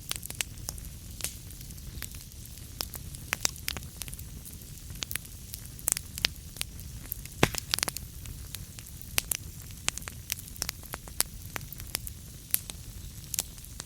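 Wood fire burning, with irregular sharp crackles and pops over a low rumble of flame; the loudest pop comes about halfway through.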